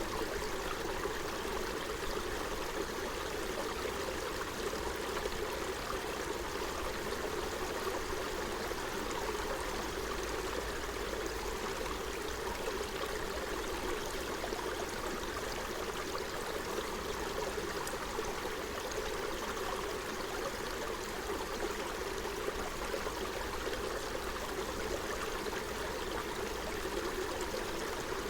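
Forest stream flowing over stones: a steady babble and trickle of running water.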